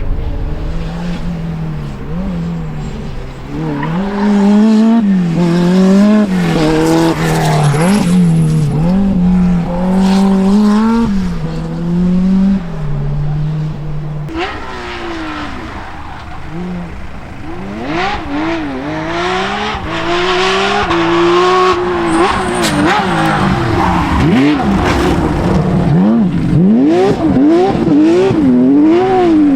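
Rally car engine driven hard, its note climbing and dropping again and again through gear changes and lifts off the throttle. About halfway through the note changes, with quicker, wider swings in pitch.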